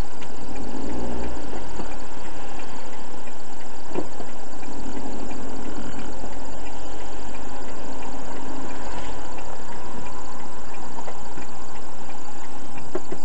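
Car engine running, heard from inside the cabin through a dashcam microphone, under a steady hiss.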